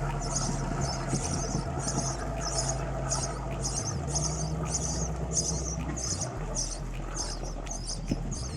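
Steady low hum of the boat's engines, with a high chirp repeating about twice a second over it.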